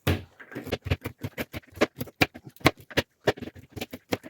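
Walnuts being chopped coarsely by hand: quick, irregular knocks, several a second.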